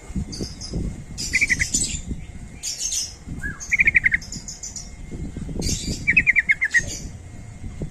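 Yellow-vented bulbuls (trucukan) calling: three quick rattling runs of notes, about ten to a second, among sharp high chirps, over a low rumble of background noise.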